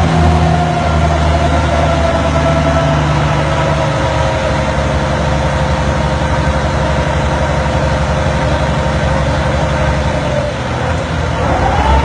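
Engine-driven generator running steadily, its low engine hum under a whine that sags slowly lower and then climbs again near the end.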